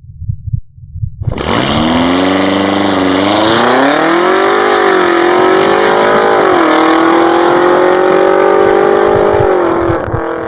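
BMW X5M's twin-turbo V8 pulling hard through an Akrapovic exhaust with Eisenmann downpipes: the pitch climbs, drops back twice as it shifts, then rises slowly again. A low pulsing heartbeat-like thump comes before the engine starts to sound, about a second in.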